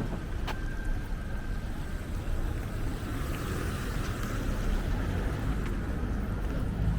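Steady low rumble of outdoor background noise, with a single sharp click about half a second in.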